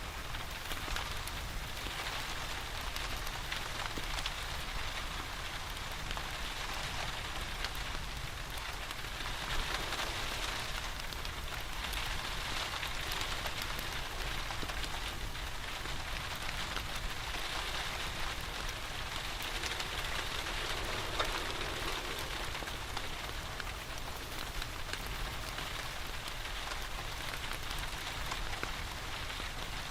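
Steady rain falling and pattering, with many small scattered ticks of drops. A wood fire in a fireplace crackles faintly beneath it.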